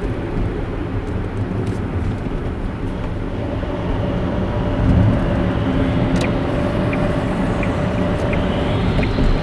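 Car driving along a road: a steady rumble of tyres and engine. About six seconds in, a light regular ticking starts, roughly one and a half ticks a second.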